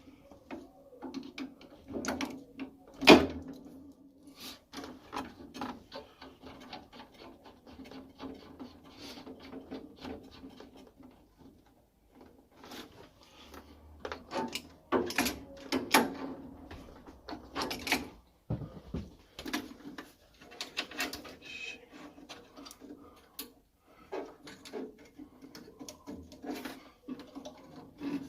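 Scattered clicks, knocks and clatter of tools and metal fittings being handled on a boiler, over a steady low hum.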